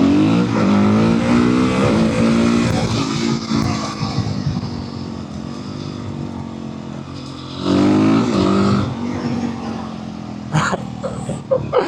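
Motorcycle engine under throttle. It climbs in pitch for the first few seconds, eases off, then surges loudly again about eight seconds in before dropping back.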